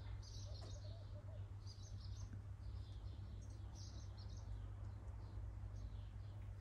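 Birds chirping repeatedly and faintly, over a steady low hum.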